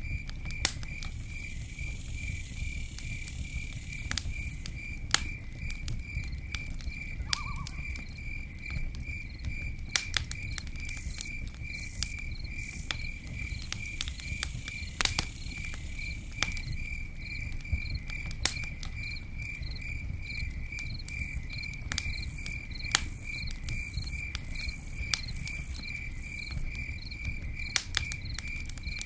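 Campfire burning, with a low rumble and sharp crackles and pops scattered irregularly throughout. A cricket chirps steadily at an even pace over it.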